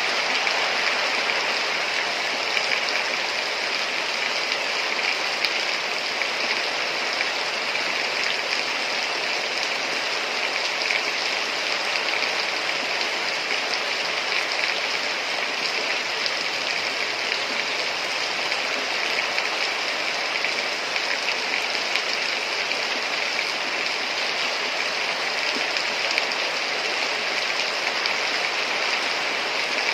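Heavy rain falling steadily, a dense even hiss of drops with many small pattering ticks.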